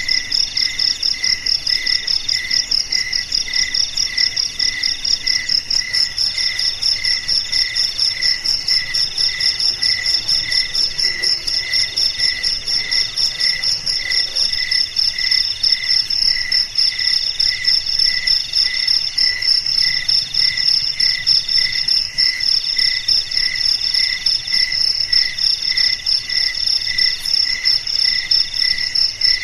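A chorus of crickets chirping without pause: several overlapping high-pitched songs, one pulsing about twice a second, another in longer trills broken by short gaps, and a rapid shrill one above them.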